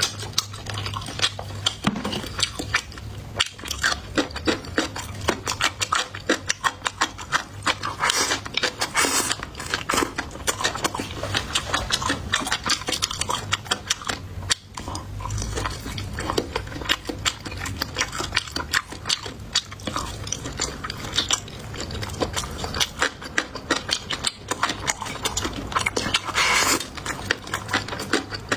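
A person chewing crunchy dried radish with the mouth, a dense, steady run of crisp crunches and clicks.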